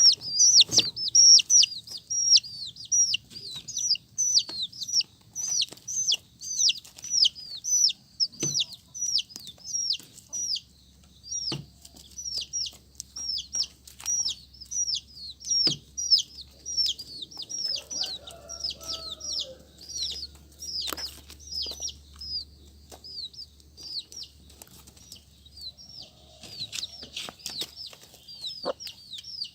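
Domestic chicks peeping: a rapid, continuous string of short, high-pitched calls that each fall in pitch. They thin out through the middle and pick up again near the end, with a few light knocks among them.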